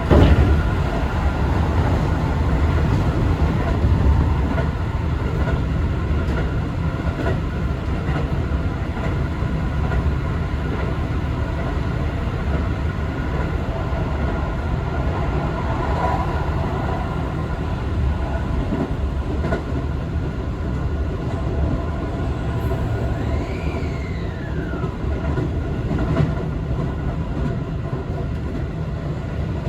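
Keio Liner commuter train running along the line: a steady low rumble of wheels and running gear, with a sharp knock right at the start and a few scattered clicks. A brief falling whistle-like tone sounds about 23 seconds in.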